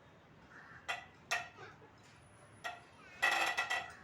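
Metal hand tools and engine parts clinking: three separate sharp metallic clinks, then a brief, louder rattling clatter of ringing metal near the end.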